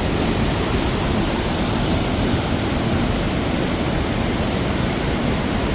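Waterfall seen at close range: falling water making a steady, loud rushing noise with no breaks.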